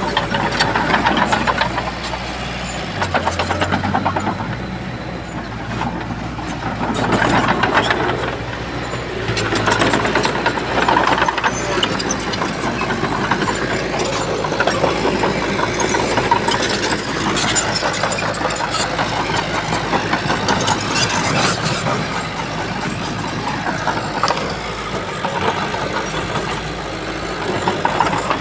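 Diesel engines of heavy earthmoving machinery running and working, swelling louder several times as they take load, with a fast, rough firing beat.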